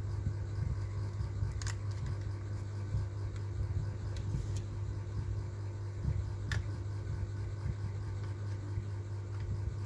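Steady low hum with a few light, sharp clicks scattered through it, four in all.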